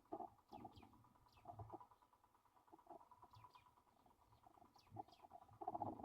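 Black-shouldered kite nestlings giving faint, thin, high whistled calls that fall in pitch, a few at a time, over soft scratchy rustling in the nest that grows louder near the end.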